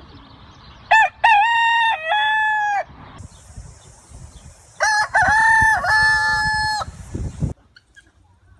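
A rooster crowing twice, each a long multi-part cock-a-doodle-doo, the second over a steady high hiss.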